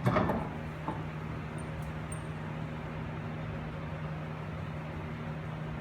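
A heavy wheel knocks against the new front hub and bearing, once sharply at the start and more lightly just under a second later. Under it runs a steady low machine hum.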